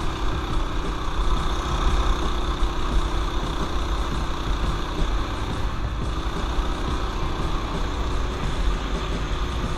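Mini bike's small single-cylinder four-stroke engine running steadily while riding a dirt trail, with a heavy, uneven low rumble.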